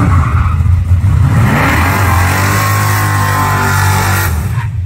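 Car engine revving up about one and a half seconds in and held at high revs while the rear tyres spin in a burnout, then cutting off sharply near the end.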